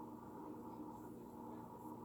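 Quiet room tone: a steady hum with a few constant tones and no distinct events.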